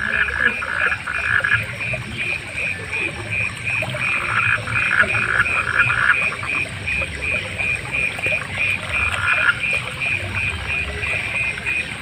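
A chorus of frogs calling. One frog repeats a short, high call about three times a second without a break, while bouts of faster, lower rattling calls from other frogs come and go every few seconds.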